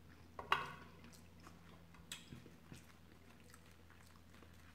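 A person chewing food with faint mouth noises: one louder wet smack about half a second in, then a few soft clicks.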